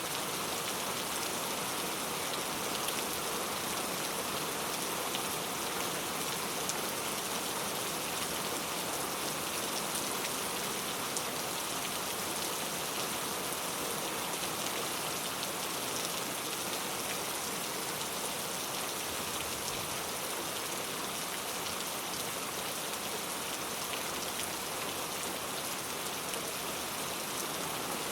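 Heavy rain falling on mango leaves: a steady, even hiss of rainfall with scattered individual drop taps.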